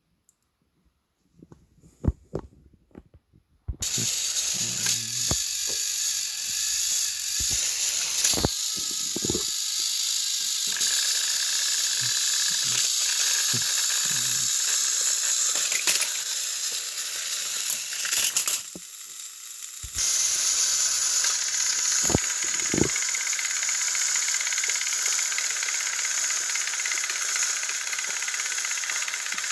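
Battery-powered Thomas & Friends toy engines running, their small motors and plastic gears making a steady, hissing rattle, after a few clicks of the toys being handled and switched on. The running stops briefly about two-thirds of the way through, then starts again.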